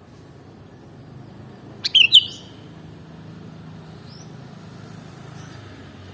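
Sooty-headed bulbul (kutilang) calling: a loud burst of three quick sharp notes about two seconds in, then a faint short rising chirp near the end, over a steady low background rumble.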